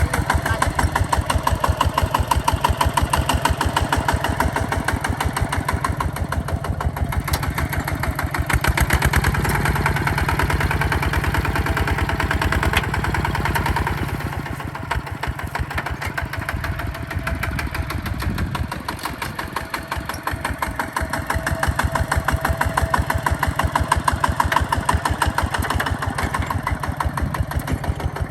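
Hinota HG Gold 155 DI tractor's diesel engine running steadily with a rapid, even chugging beat. It drops in loudness about halfway through, then comes back up near the end.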